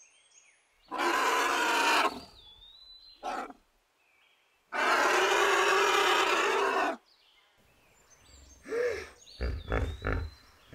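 Calls of large wild animals in turn: a loud call of about a second, a brief shorter one, then a loud call of about two seconds in the middle, and a run of short, deep grunts near the end.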